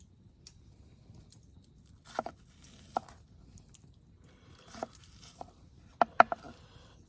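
A handful of sharp, light clicks and knocks of hard objects being handled, each with a brief ring, about six in all, the loudest pair near the end, over a faint steady background.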